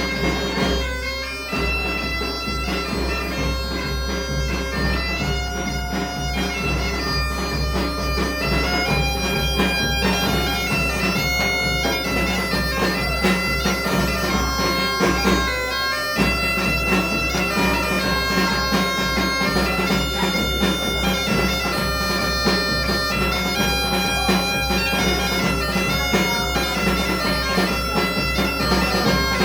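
Galician bagpipe (gaita) playing a tune over its steady drone, with a drum keeping a regular beat; the music breaks off briefly about a second in and again about halfway through before carrying on.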